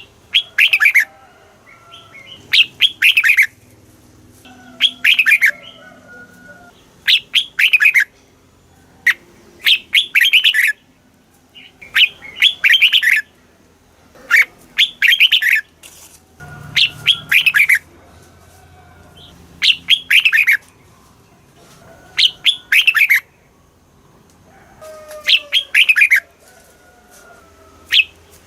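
Red-whiskered bulbul singing: short, bright song phrases repeated about every two seconds, each a quick run of notes falling in pitch, with brief pauses between them.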